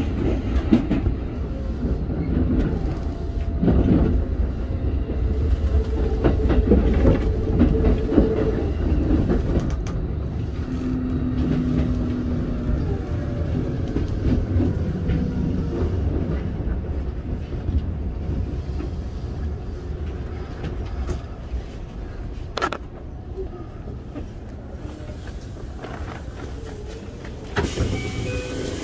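Keikyu 1500-series field-chopper electric train heard from inside the car, wheels rumbling on the rails and a faint falling whine as it slows into a station, the rumble dying away. A sharp clack comes a few seconds before the end, and near the end the doors open with an air hiss.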